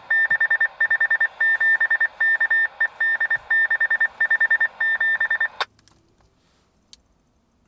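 Railroad crossing's electronic warning bell ringing, a rapid high-pitched beeping that cuts off suddenly about five and a half seconds in.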